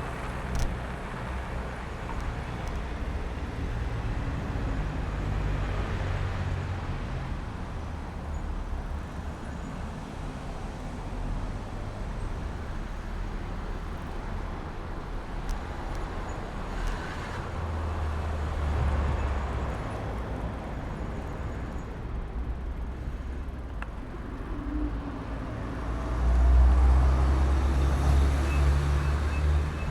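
City street traffic: motor vehicles passing, with a steady low rumble that swells twice, the louder swell near the end.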